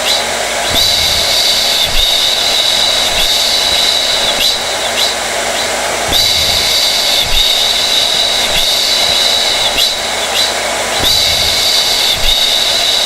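Hair dryer running steadily: a loud rush of air with a high-pitched motor whine over it, its tone shifting slightly about every five seconds.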